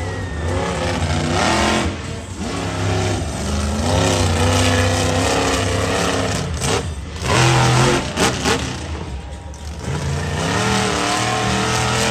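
Monster truck engine revving hard, its pitch climbing and falling again and again as the throttle is worked, with a few brief drops in between.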